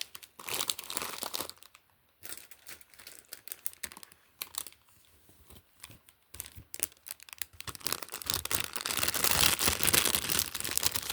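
Plastic packaging being handled and opened, crinkling in bursts with short pauses, busiest and loudest over the last few seconds.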